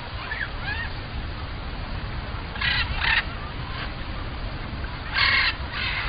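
Harsh, raspy bird calls in two pairs, about two and a half seconds apart, with smaller birds' short chirps near the start and a steady low rumble underneath.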